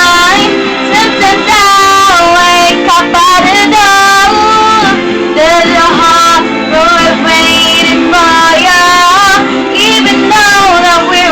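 A woman's voice singing a pop ballad over instrumental backing, holding long notes with vibrato and sliding between pitches.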